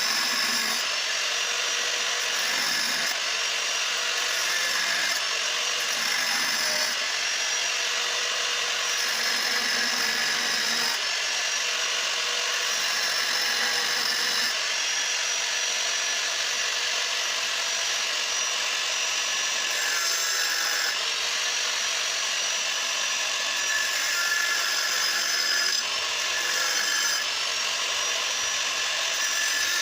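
Angle grinder cutting through the steel of a motorcycle's stock exhaust silencer. It runs continuously, with a high whine that dips in pitch and recovers several times as the disc bites into the metal.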